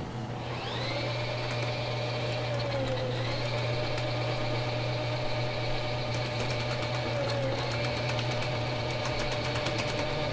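Electric drain-cleaning machine motor spinning up and then running steadily over a constant low hum, its pitch dipping briefly twice as it takes load. Rapid ticking comes in over the last few seconds.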